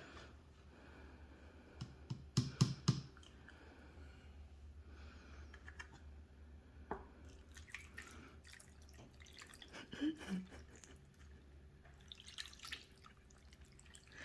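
Thin tomato sauce poured over sliced potatoes and chicken in a baking tray: faint pouring and dripping, with a cluster of sharp clicks about two to three seconds in.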